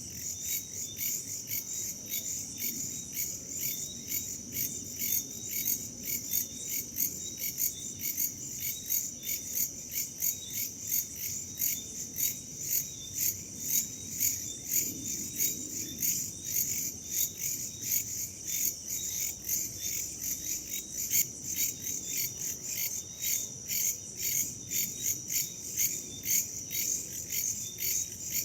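Crickets chirping in a steady chorus of rapid, evenly spaced high-pitched pulses, about three to four a second, with a soft low rush of wind underneath.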